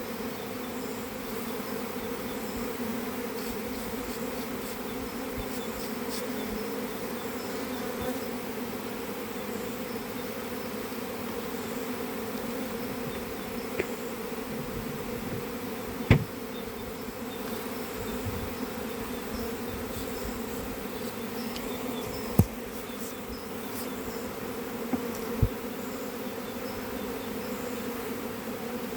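Many honeybees buzzing steadily in a dense, even hum around an opened hive. A few sharp knocks, the loudest about 16 and 22 seconds in.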